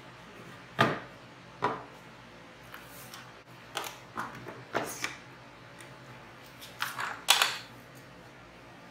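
A series of about eight sharp clicks and knocks, irregularly spaced, the loudest two near the end: wood and clamps being handled during a glue-up of a 2x4 half-lap frame.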